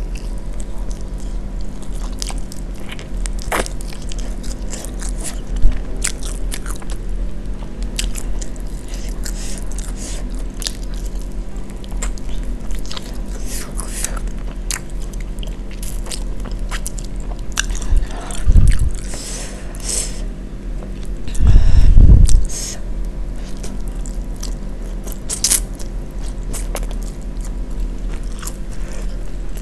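Close-miked chewing and crunching of a crispy spicy fried chicken wing, with many short sharp crunches throughout. Two louder low thumps come past the middle, a few seconds apart, the second lasting about a second.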